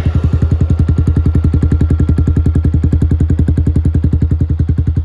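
Yamaha R15 V3's single-cylinder four-stroke engine idling through an aftermarket Akrapovic full-system exhaust: a loud, steady, even train of exhaust pulses, over a dozen a second.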